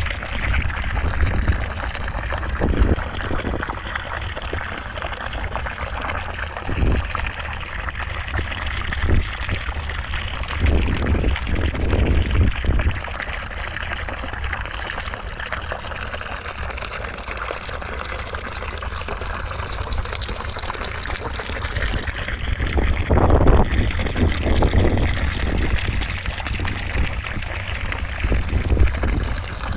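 Continuous rushing white noise with a watery, gushing character, like running water, its tone slowly shifting and swelling now and then.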